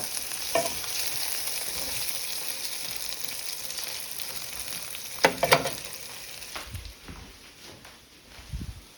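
Mini meatballs sizzling as they fry in a pan, a steady hiss that slowly dies down. Two sharp clinks about five seconds in and a soft thump near the end.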